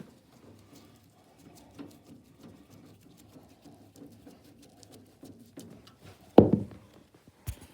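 Hands working on a box fan's back panel while screwing it on: light clicks and rustling, a loud thump about six and a half seconds in, and a sharper knock about a second later.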